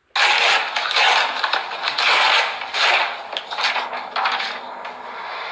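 Loud, irregular crunching and clattering that starts suddenly and eases off toward the end.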